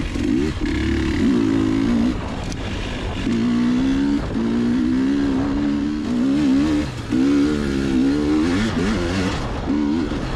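Two-stroke dirt bike engine rising and falling in pitch as the throttle is worked, with brief let-offs between pulls. Wind rumbles on the helmet microphone.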